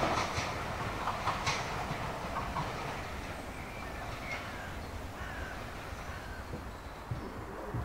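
Train hauled by a Class 47 diesel locomotive moving away: a fading rumble with a few sharp clicks of wheels over rail joints in the first second and a half. Then a steady low background with short bird calls.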